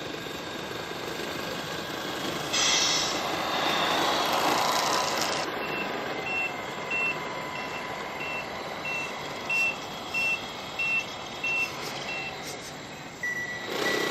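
1/14 Tamiya Mercedes-Benz RC tractor truck's sound unit: a hiss lasting about three seconds, then a reversing beeper beeping about one and a half times a second. Near the end the beeper switches to a lower-pitched beep.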